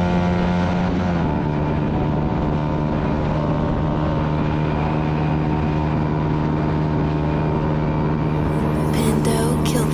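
Motorcycle engine running at high, steady revs, its pitch dropping slightly about a second in and then held. A few clicks near the end.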